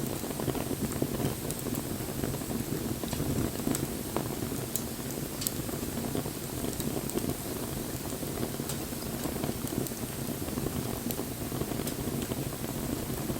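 Wood campfire burning: a steady low rush of flames with scattered sharp crackles and pops from the wood.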